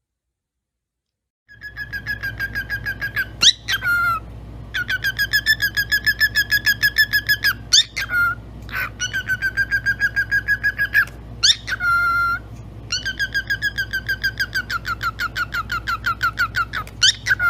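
Pet parrot whistling a rapid pulsing trill, about six notes a second, in three long runs, each ending in a quick upward swoop and a short held note. A low hum runs underneath.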